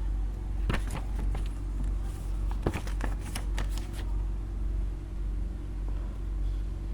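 Light handling noise, short rustles and clicks of paper or packaging being handled, in two clusters: about a second in, and from about two and a half to four seconds in. A steady low hum lies under it throughout.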